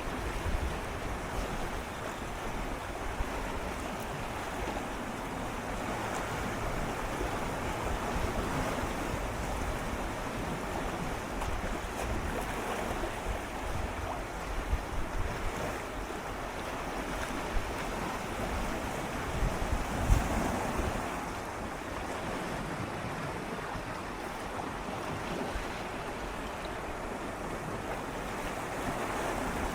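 Gentle sea waves swirling and lapping against shoreline rocks: a continuous wash that swells and eases, with a brief louder surge about two-thirds of the way through.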